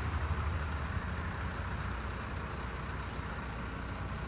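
Engine of a piece of heavy equipment running steadily with a low, even rumble.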